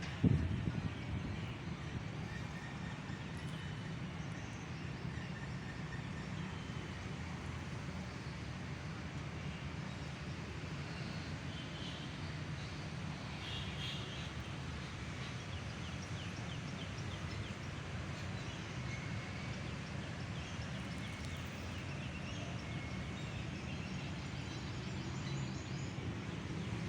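Steady low outdoor rumble with faint, scattered bird calls, clearest around the middle; a single brief thump just after the start.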